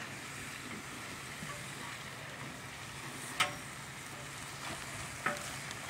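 Hamburger patties and bacon sizzling on a Blackstone flat-top griddle, a steady frying hiss. A spatula clicks sharply against the griddle about three and a half seconds in, and more lightly near the end.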